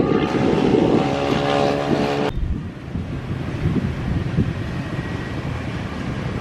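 Jet airliner engines droning, a steady multi-tone hum over a rumble, which cuts off abruptly about two seconds in. From then on only wind buffeting the microphone remains.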